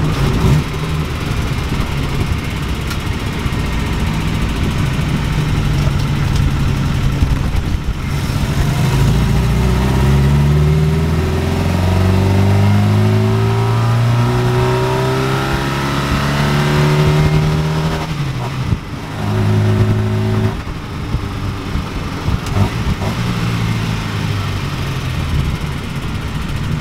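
Ford Pinto four-cylinder engine in a 1969 Ford Capri pulling under acceleration. Its note climbs steadily for several seconds, drops sharply about eighteen seconds in and picks up again, as at a gear change.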